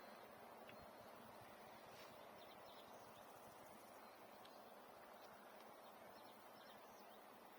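Faint open-field ambience: a low, steady hiss of air with a few short, faint high chirps scattered through it, likely distant birds.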